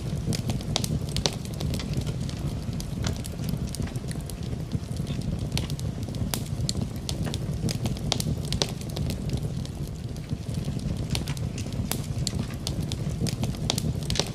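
Wood fire crackling in a fireplace, with many irregular sharp pops and snaps over a steady low rumble; rain may be mixed into the background hiss.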